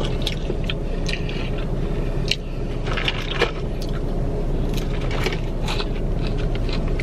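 Close-up chewing and wet mouth sounds of a person eating fast food, many short smacks and clicks, over a steady low background hum.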